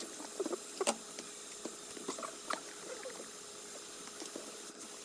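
Small scattered clicks and light scrapes of tweezers and a soldering tool at an iPhone 8 Plus logic board over a faint steady hiss, as a shorted capacitor is taken off the board.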